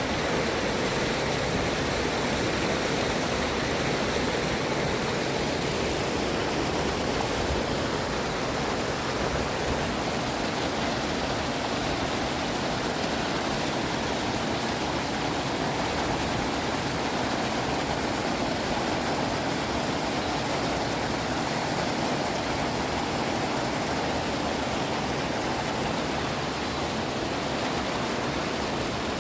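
Mountain valley stream running steadily: a continuous, even wash of flowing water with no breaks or changes.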